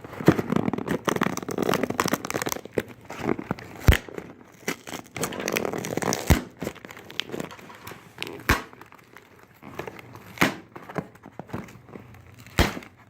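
Cardboard shipping box being opened by hand, with plastic packing air cushions crinkling and rustling as they are handled, and several sharp snaps spread through it.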